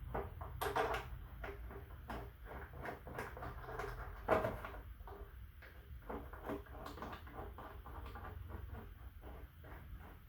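Irregular light clicks, taps and clatter of motorcycle parts and bolts being handled while refitting the front fender, with one louder knock a little over four seconds in, over a low steady hum.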